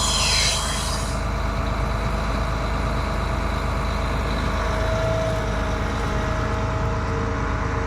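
Farm tractor's diesel engine running steadily, with a short high hiss that falls away in the first second.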